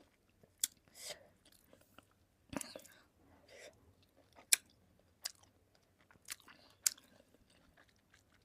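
Close-miked mouth sounds of eating: soft wet chewing broken by sharp lip-smacking clicks, roughly one every second.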